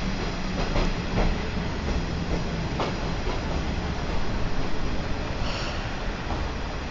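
A Watarase Keikoku Railway trolley train running along the track, heard from inside its carriage: a steady rumble with scattered clicks from the wheels over the rails. A brief high-pitched hiss or squeal comes about five and a half seconds in.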